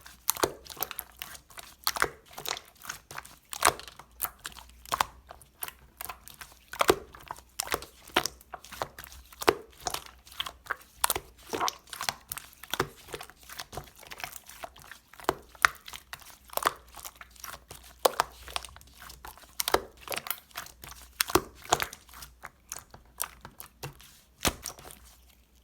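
Clear slime being squished and poked by hand: a fast, irregular run of sharp clicks and pops that stops just before the end.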